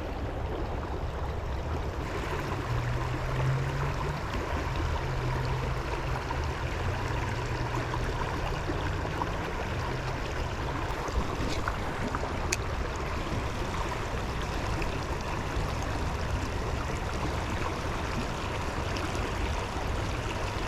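Shallow river water running over rocks, a steady rush.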